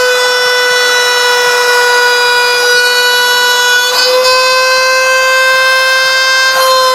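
CNC router spindle whining at a high, steady pitch while it cuts, with a haze of cutting noise beneath. The pitch shifts slightly about four seconds in and again near the end as the load on the cutter changes.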